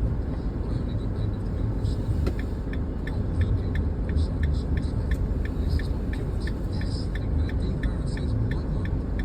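Car engine and cabin rumble heard from inside the vehicle. About two seconds in, a quick, regular ticking starts, about three ticks a second, and keeps going.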